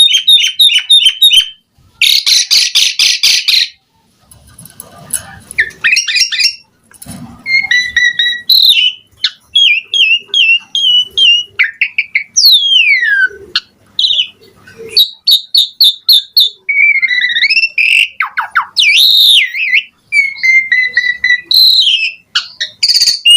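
Asian pied starling (jalak suren) in full song. It mixes fast runs of repeated chattering notes with clear whistles and swooping glides, a varied, mimicry-filled song of a bird in top singing form.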